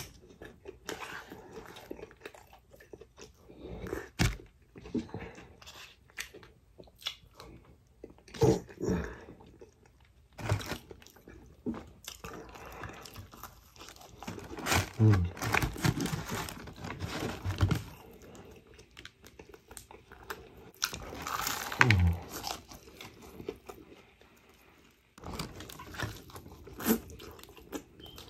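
Close-up chewing and biting into crispy fried chicken, with irregular crunches of the breaded crust and wet chewing in between, louder in several clusters.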